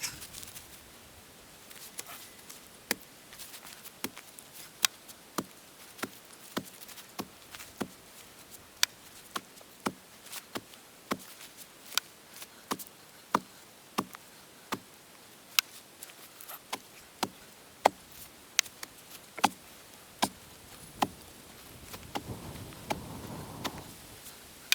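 A steady run of sharp knocks, roughly one every half second to second, from a long-handled digging or tamping tool with splintered wooden handles striking the ground while a wooden post is set. A softer scraping rustle comes in near the end.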